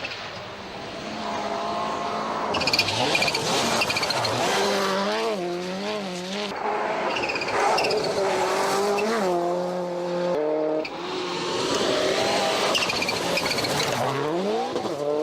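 Subaru Impreza GC8 rally car's flat-four boxer engine revving hard, its pitch climbing and falling again and again through gear changes and lifts, with a sharp drop about ten seconds in and a long rise near the end.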